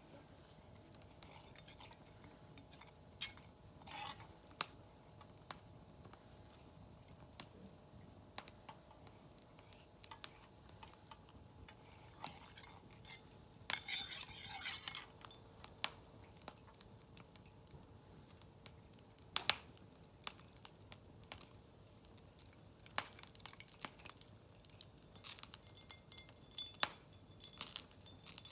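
Cookware and utensils being handled: scattered light clinks and knocks of metal, with a short scraping or rustling burst about halfway through.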